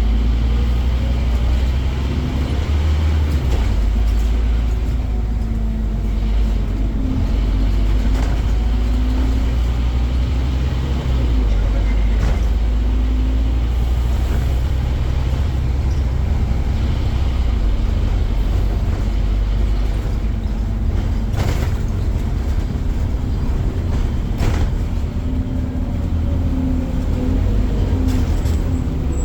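Scania Omnicity double-decker bus's diesel engine running, its pitch drifting up and down with engine speed under a steady low rumble. A few sharp knocks come about two-thirds of the way through.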